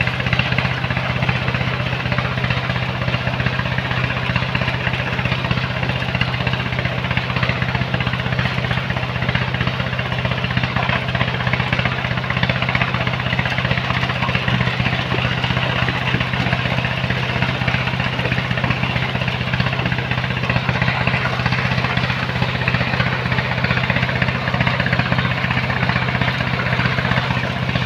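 Engine of a sand-loading machine running steadily at constant speed, a continuous low hum with a noisy rush over it.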